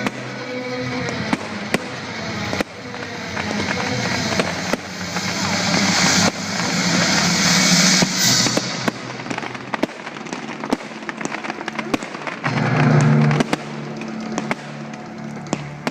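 Fireworks going off: sharp bangs at irregular intervals over a hissing crackle, with music playing underneath.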